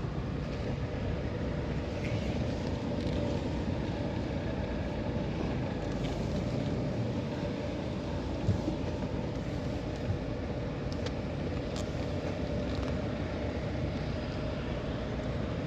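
Steady engine and road noise of the vehicle being driven through the park, heard from inside it.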